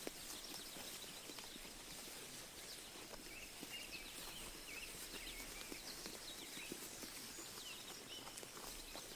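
Sheep grazing close by: faint, irregular crisp clicks of grass being torn and chewed. Birds chirp in short bursts over a steady faint hiss of open field.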